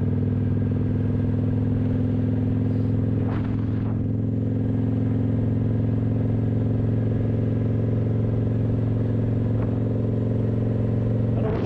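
Kawasaki 900 motorcycle engine running steadily at a constant engine speed through its factory exhaust with the baffles removed.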